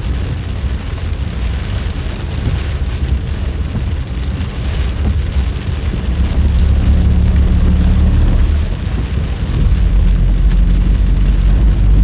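Car driving through heavy typhoon rain: rain on the car and tyres hissing on the wet road, with a low engine hum that gets louder from about halfway through.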